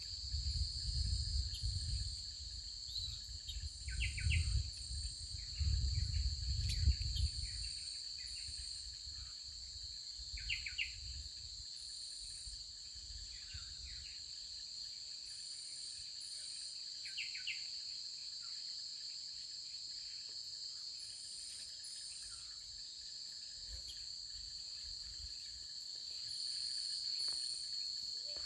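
Forest insect chorus, crickets giving a steady high trill that carries on unbroken, with short high chirps repeating in pairs and a few brief bird calls. A low rumble sits under it for the first several seconds, then fades out.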